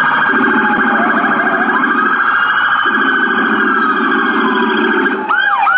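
US police car siren sounding: a fast warbling yelp with a slower wail gliding up and down over it.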